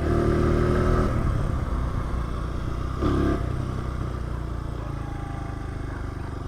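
Honda CRF100 pit bike's small single-cylinder four-stroke engine running at low revs and settling down, with a short blip of throttle about three seconds in.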